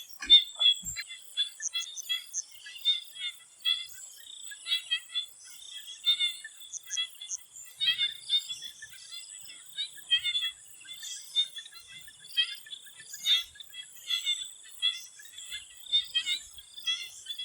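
Chorus of swamp frogs giving short, repeated chirping calls at an uneven pace, over a steady high-pitched insect drone.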